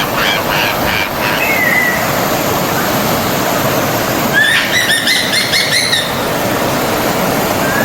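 Forest stream running steadily, with birds singing over it: a fast run of repeated notes in the first second or so, a rapid series of notes about four and a half seconds in, and faint chirps near the end.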